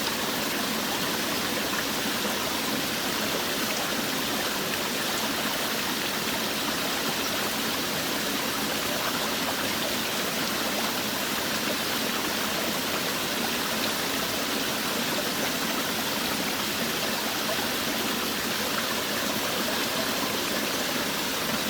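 Small forest waterfall: water pouring and splashing in a steady, even rush.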